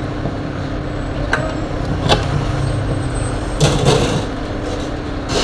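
Steady low background rumble with a constant hum, broken by a sharp click about a second and a half in, another near two seconds, and a louder rustling knock a little past the middle.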